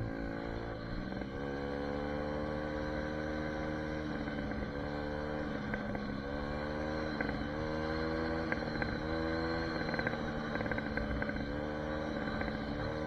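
SSR 150 dirt bike's 150cc four-stroke engine running under way, its pitch climbing early on and then repeatedly rising and dropping as the throttle is opened and eased off.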